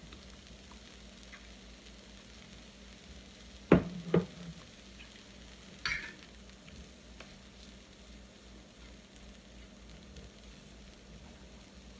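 Cooked chicken sizzling faintly in a pan on the grill, a steady low frying hiss. Two sharp knocks land a little before four seconds in, with a smaller click about two seconds later.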